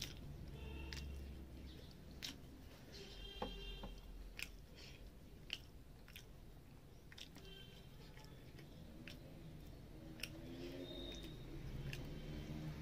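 Close-up chewing of hand-mixed rice, fish fry and gravy, with wet mouth smacks and a few sharp clicks scattered through.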